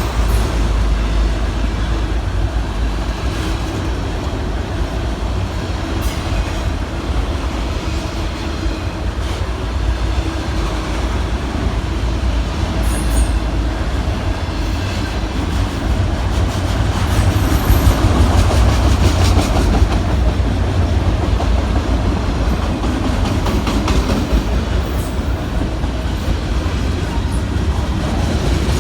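Freight cars of a Norfolk Southern manifest train rolling past in a steady, heavy rumble, with occasional clicks of wheels over the rail.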